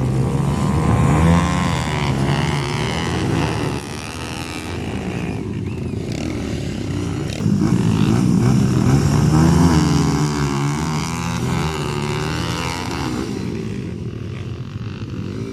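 Motocross dirt bike engines revving up and down as the bikes ride the track; one gets louder about seven and a half seconds in, is loudest around ten seconds, then fades away.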